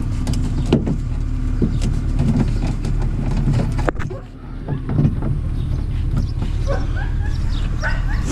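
A steady low mechanical hum with scattered clicks and knocks, dipping briefly about four seconds in.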